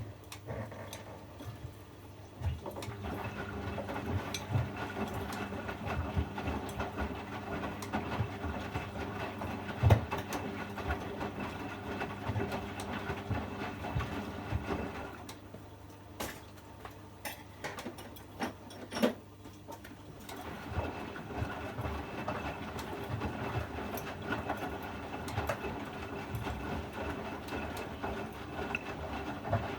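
Privileg 804 washing machine's drum motor running with a steady hum and scattered knocks from the turning drum. It stops about halfway through for a few seconds, then starts again, the drum turning in bursts as in a wash cycle.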